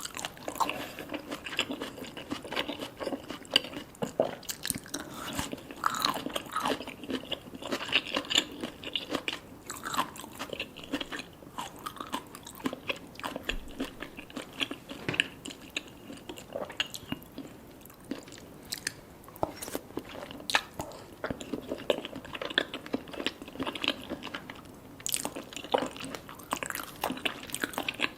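Close-miked chewing and biting of salmon sashimi with red tobiko and sea grapes: a steady run of wet mouth sounds with many sharp little crunches and clicks.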